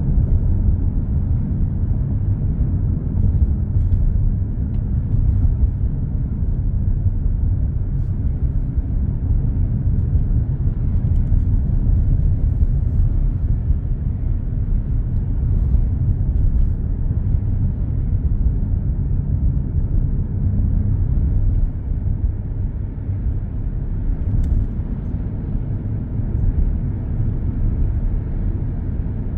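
Steady low rumble of a car cruising on an expressway, with tyre and road noise heard from inside the cabin. It eases slightly about two-thirds of the way through.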